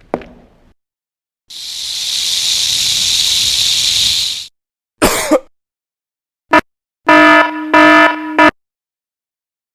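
A string of separate sound effects: a hiss swells in and runs for about three seconds, then comes a short burst and a click, and near the end a car horn honks in three short blasts.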